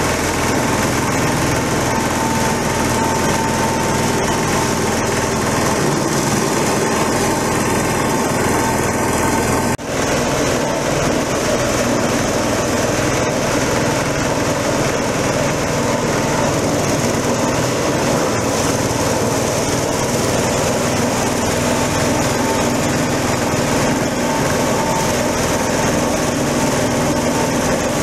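Small engine of a coconut husk shredder (cocopeat machine) running steadily at speed, with a momentary break about ten seconds in.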